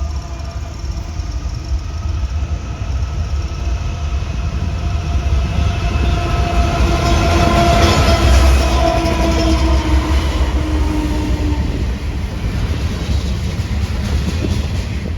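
A train passing close by, its rumble building to a peak about eight seconds in and then easing. Several held tones sound over the rumble and fade out about twelve seconds in.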